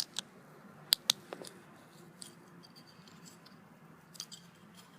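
Small plastic Lego pieces clicking as they are handled and pressed together: a few sharp clicks, the loudest two close together about a second in, then a few fainter ones.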